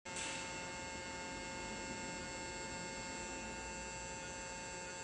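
Steady electric hum with several high, unchanging tones over it, from an electric machine running.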